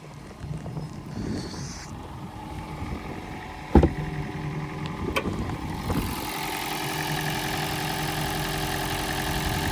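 2004 Toyota Prius's 1.5-litre four-cylinder petrol engine running steadily at idle after a snowy cold start. A sharp thump about four seconds in is the loudest sound, followed by two lighter clunks. After the clunks the engine sound becomes louder and fuller.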